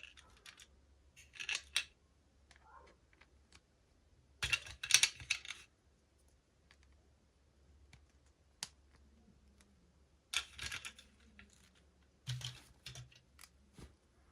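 Toy packaging and small plastic pieces being handled: several short bursts of crinkling and rustling, the longest and loudest about five seconds in, with scattered small clicks and taps between them.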